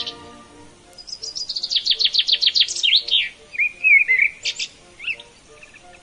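A songbird singing: a fast string of sharp falling notes, then a short warbling phrase and two quick high notes.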